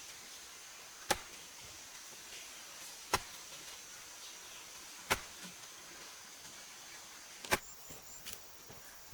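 Four sharp single strikes, about two seconds apart, like a tool chopping or knocking on a hard material, over a steady high-pitched insect hum.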